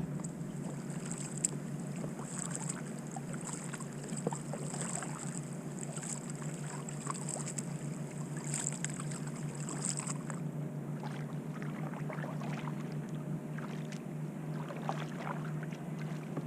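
Kayak paddling on calm water: paddle blades dipping and dripping, with small splashes in a rhythm of about one a second that stops about ten seconds in.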